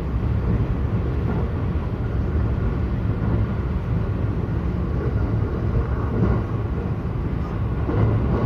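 Local electric train running between stations: a steady low rumble of wheels on track, heard from inside the carriage.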